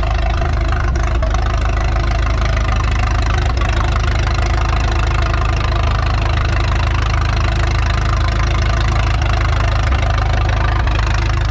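1937 Cockshutt 18-28 tractor engine idling steadily with an even, knocking beat.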